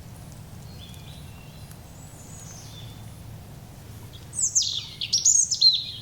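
A songbird singing: faint high whistles at first, then a loud phrase of quick sweeping notes, falling and rising, about four seconds in, ending on a short held note.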